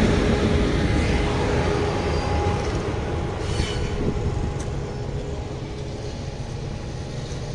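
A train rolling away after passing close by: a low rumble of wheels on rail with a steady hum, growing steadily fainter. A few faint clicks about halfway through.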